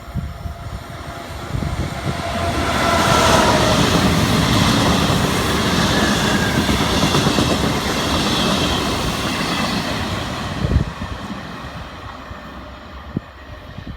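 Train passing along the track, its wheels on the rails building up over a couple of seconds, staying loud for about seven seconds, then fading away. A faint whine drops in pitch as it comes by.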